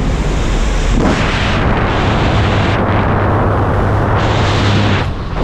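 Loud wind buffeting the microphone over a steady low drone from the jump plane's engine. The rush of air grows brighter and fuller from about a second in.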